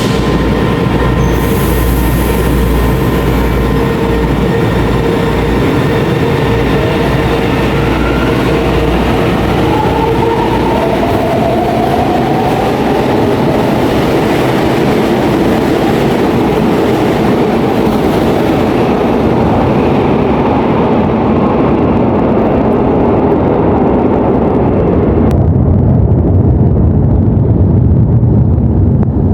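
São Paulo Metro train running, a loud continuous rumble with steady electric tones and a brief rising motor whine about ten seconds in. About 25 seconds in, the sound changes abruptly to a duller, lower rumble.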